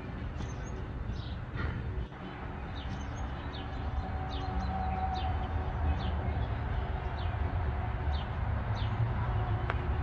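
Small songbirds chirping: short, high, downward chirps repeated about every half second, over a steady low rumble.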